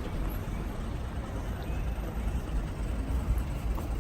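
City street ambience: steady traffic noise from passing vehicles, with a low rumble.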